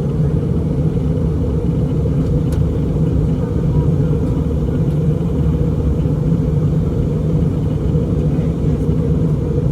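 Airbus A321 cabin noise from inside the cabin: a steady, deep rumble of engine and airflow noise that does not change.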